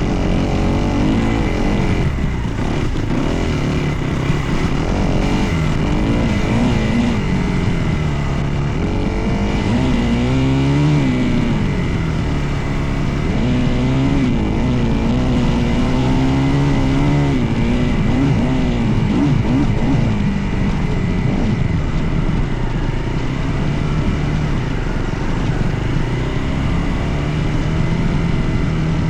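Dirt bike engine running under way, its pitch rising and falling every few seconds as the throttle is opened and closed.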